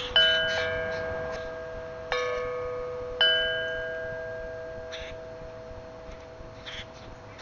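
Metal chimes struck three times at uneven intervals, each strike sounding a cluster of bell-like notes that ring on and slowly fade, typical of a wind chime stirred by the wind.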